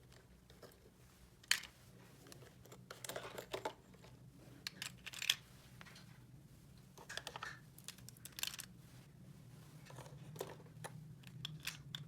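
Small plastic toy pieces handled and clicked together, with light rustling of packaging: irregular taps and clicks, the sharpest about a second and a half in and again near the middle, over a low steady hum.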